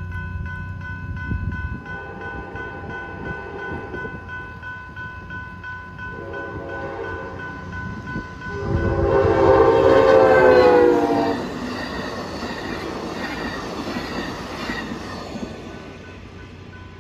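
Amtrak passenger train passing the grade crossing. Its multi-chime horn sounds a short blast about six seconds in, then a long, loud blast from about nine to eleven seconds, followed by the rolling clatter of wheels on rail. Crossing bells ring in a steady fast pulse throughout.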